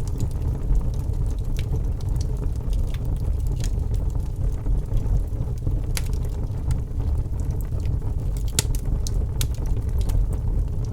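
Wood fire burning in a fireplace: a steady low rumble with sharp crackles and pops scattered through it, a few louder pops in the second half.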